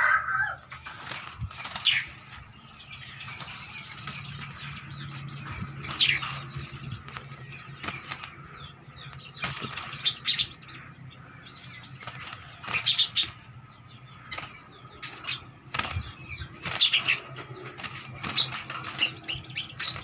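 Two caged birds fighting: wings flapping hard in repeated flurries, with sharp wingbeats against the wire cage and short high calls every few seconds.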